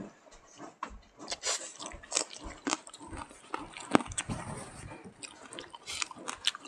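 Close-miked mouth sounds of two people eating smoked pork and rice by hand: chewing with wet smacks and short clicks. The sharpest click comes about four seconds in, as a piece of smoked pork is bitten.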